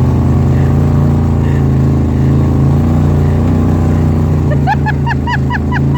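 Motor vehicle engine running steadily. About three-quarters of the way in, a high voice starts quick, repeated yelps over it.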